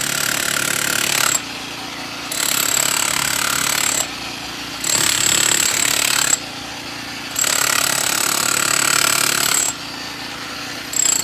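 Jackhammer breaking concrete in repeated bursts of one to two seconds, stopping for about a second between each run and starting again near the end, with a steady high whine from the tool's motor while it runs.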